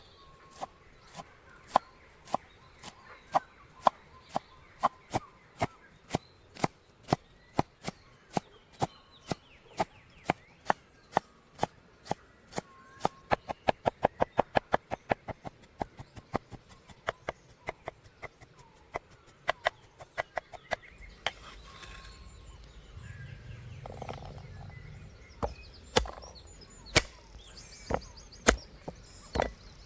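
Knife chopping on a cutting board in steady strokes of about two a second, quickening to a rapid run around the middle. After a short pause, a few harder chops come near the end.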